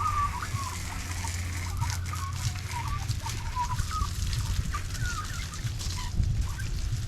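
Chickens clucking repeatedly in short calls, over a steady hiss and low rumble from a low-pressure hose spray on the bike.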